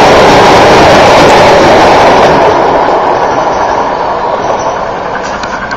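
Steam-hauled passenger train running past: a steady loud rumble and rattle of wheels on the rails, which fades from about two and a half seconds in as the train draws away.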